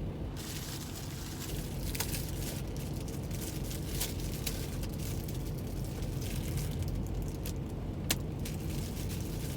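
Steady low hum of a semi truck's idling diesel engine heard inside the cab, with a few sharp clicks about two, four and eight seconds in.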